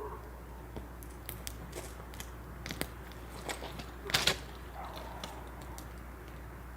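Campfire of firewood crackling, with scattered sharp pops and a louder burst of crackles about four seconds in.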